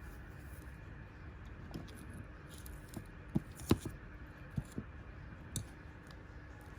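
A handful of small, sharp clicks and taps, the loudest a little past halfway, over a faint steady hum.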